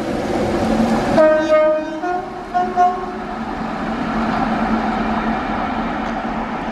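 A rail vehicle running with a steady rumble, sounding its horn: one longer note about a second in, then two short higher notes.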